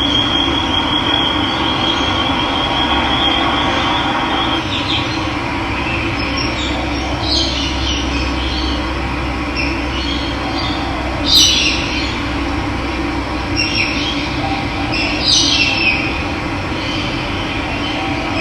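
Steady rush of running water, with birds calling over it: a high thin trill in the first few seconds, then several short bright chirps.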